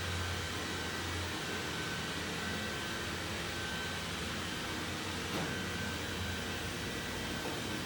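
Xiaowa E35 robot vacuum running steadily: an even fan whir with a thin high whine over it, and one light knock about five seconds in.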